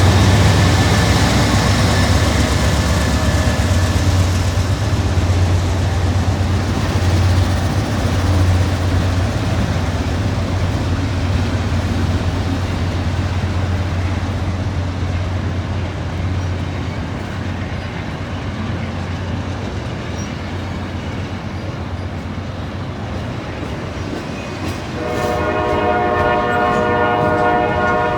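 Freight train rolling past slowly, a steady rumble of wheels and cars. About 25 seconds in a train horn starts sounding and holds to the end.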